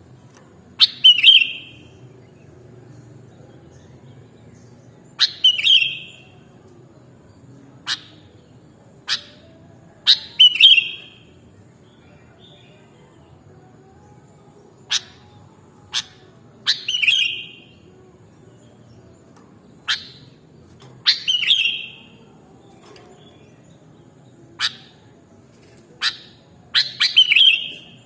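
Sooty-headed bulbul (kutilang) calling: sharp short notes every one to four seconds, several of them running into a brief chirpy trill, coming quicker near the end.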